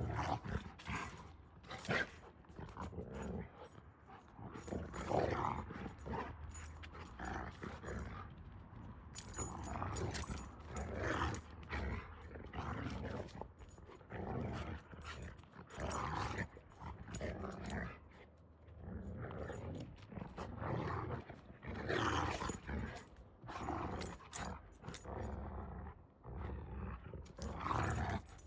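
A dog growling in repeated bursts, on and off throughout, over a low steady hum.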